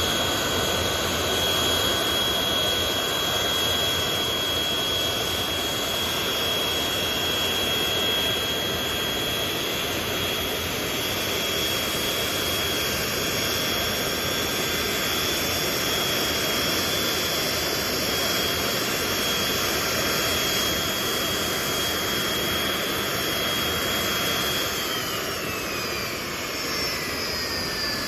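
Boeing 737-200's Pratt & Whitney JT8D turbofan engines running with a steady roar and a high whine; near the end the whine slides down in pitch.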